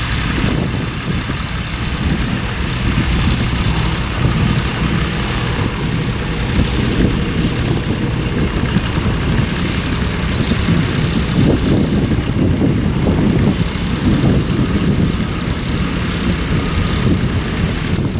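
Tractor engine running steadily with a continuous low rumble, heard while ploughing.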